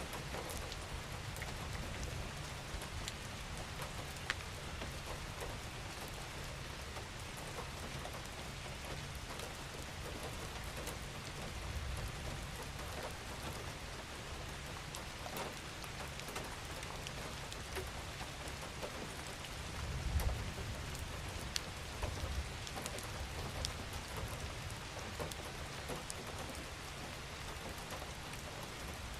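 Steady rain falling, an even hiss with many separate drops ticking through it. A low rumble sits underneath and swells briefly about twenty seconds in.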